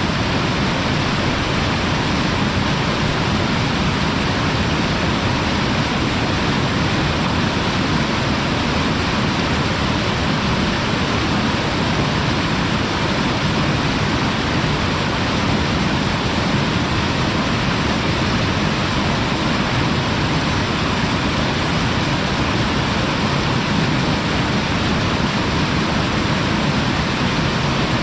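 Waterfall rushing steadily at its lip, a loud even roar of falling water.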